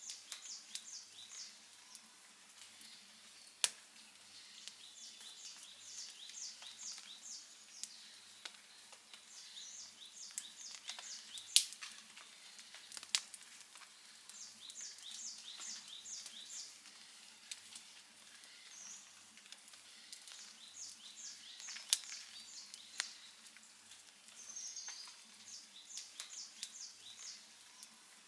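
Wood campfire crackling, with scattered sharp pops and a few much louder snaps. Behind it a bird calls over and over in quick runs of short high notes, a run every few seconds.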